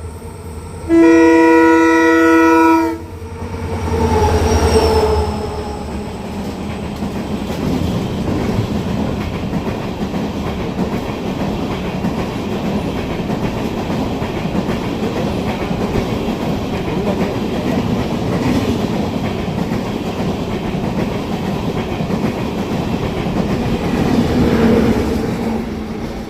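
Train horn sounding one loud, steady blast about a second in, then a passenger train running past, its coaches rumbling and clacking over the rails until the noise fades near the end.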